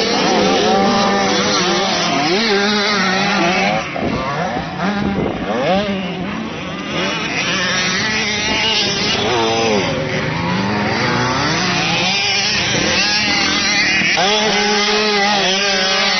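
Several motocross bikes running at once, their engines revving up and down in pitch as riders accelerate through the track. A steadier engine note sits underneath near the start and again near the end.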